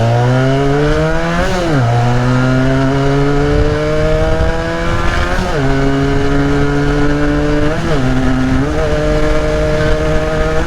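Modified-exhaust Benelli motorcycle engine pulling under acceleration. Its note climbs steadily and then drops sharply at each of about three gear changes.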